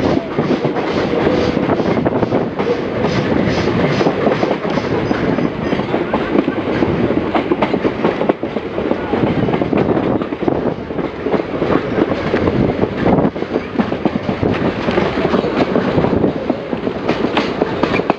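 A train running along the line, heard from an open carriage window: a steady rumble with the clickety-clack of the carriage wheels over the rail joints.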